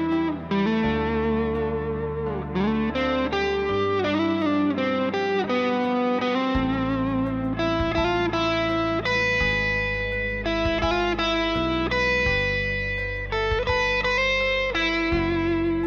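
Instrumental music on guitars: an electric guitar with effects plays a melody with string bends over plucked chords and sustained low notes.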